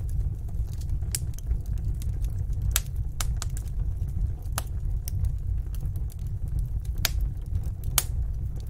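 Wood fire in a fireplace crackling: sharp pops at irregular intervals, a few louder ones standing out, over a steady low rumble.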